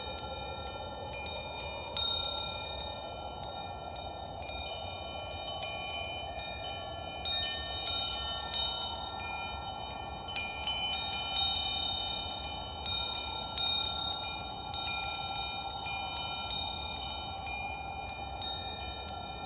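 Wind chimes ringing, several high tones struck at irregular moments and left to ring on, the loudest strikes a little past the middle. Under them runs a soft, steady rushing sound.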